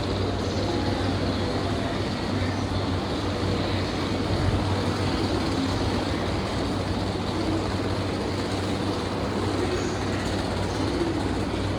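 Steady hum and rumble inside a JR East E235-series electric train car (motor car), with a constant low hum and no rising or falling motor whine.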